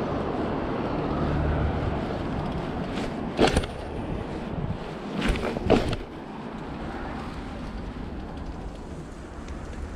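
BMX bike rolling over concrete with wind rushing over the action camera's microphone, broken by three sharp knocks: one about three and a half seconds in and two close together about a second and a half later.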